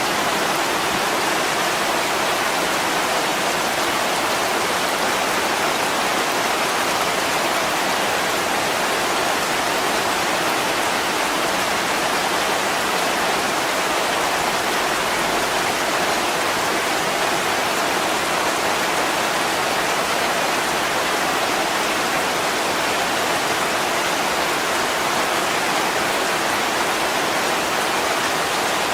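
Heavy rain falling steadily on a window: a dense, even hiss with no breaks or single drops standing out.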